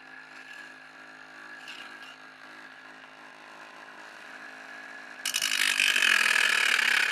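Homemade DC-motor angle grinder running with a steady hum; about five seconds in, a much louder harsh grinding noise starts suddenly.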